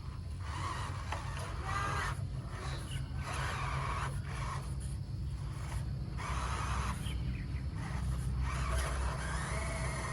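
Small electric RC car motors whining in stop-start bursts as the throttle is worked, over a steady low hum.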